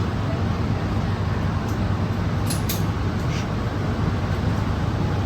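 Steady low rumble of background noise, with a few faint clicks around the middle; no gunshots are heard.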